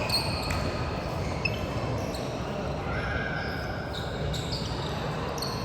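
Youth basketball game in a gym: a ball bouncing and sneakers squeaking in short high chirps on the court, over steady echoing hall noise.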